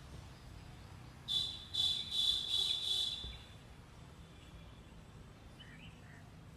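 A loud, high, pulsing animal call, about five quick pulses over roughly two seconds, starting about a second in, with a few faint bird chirps near the end over quiet outdoor background.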